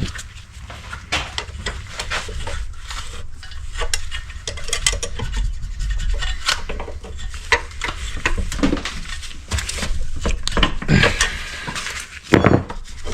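Metal engine parts and hand tools being handled: irregular clinks, taps and scrapes of metal on metal, with a few louder knocks near the end.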